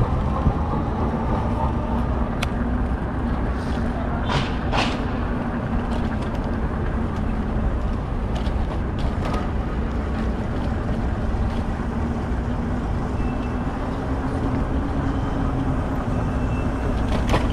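Street traffic and wind rumble heard from a moving bicycle, with a steady low hum throughout and two brief high squeaks a little over four seconds in.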